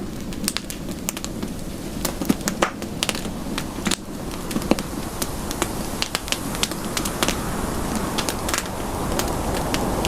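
Campfire crackling, with frequent sharp pops and snaps of burning wood over a low steady rushing of the flames that grows louder over the last few seconds.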